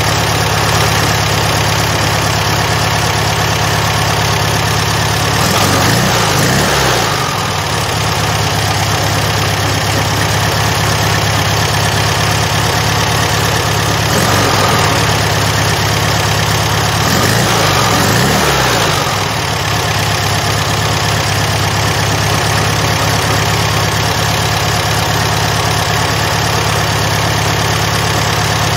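Rebuilt VW Beetle 1300 air-cooled flat-four engine idling steadily, revved up briefly and let fall back twice, about six seconds in and again about seventeen seconds in.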